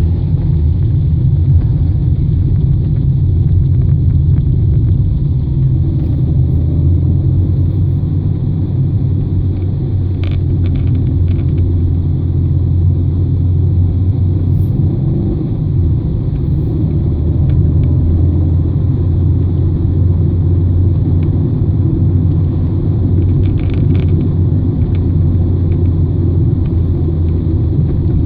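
Car engine and tyre noise heard from inside the cabin: a steady low rumble, with a few faint clicks.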